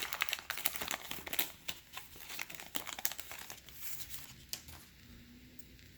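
Crinkling of a baseball card pack's wrapper being handled and opened, a dense run of irregular crackles that dies down about five seconds in.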